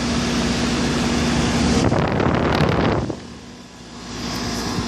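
A 1996 Rheem 4-ton central air conditioner's outdoor unit runs with a steady hum from its Copeland scroll compressor and two-bladed condenser fan. It is running continuously under a heavy heat load. A broad rushing noise cuts across it about two seconds in, then the sound drops briefly quieter about three seconds in and comes back.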